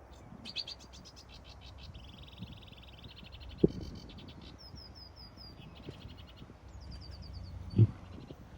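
Small songbirds singing in rapid high trills and runs of short falling notes, over a steady low rumble of distant motorway traffic, with two dull low thumps, one mid-way and one near the end.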